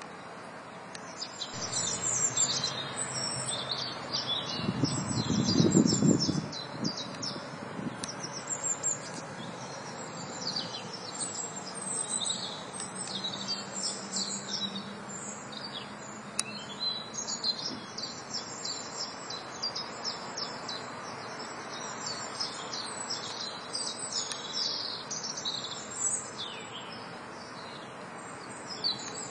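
Songbirds chirping and twittering, a dense run of short high calls starting about a second and a half in. A low rumble swells and fades around five to six seconds in, the loudest sound in the stretch.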